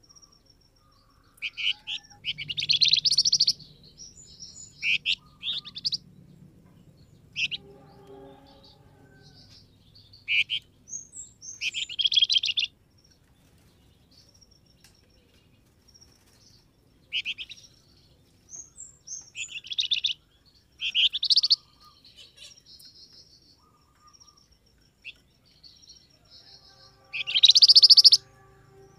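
Calls of the flamboyan bird, the Indonesian lure call for this songbird: bursts of fast, high chattering chirps every few seconds, each up to about a second long, the loudest near the end.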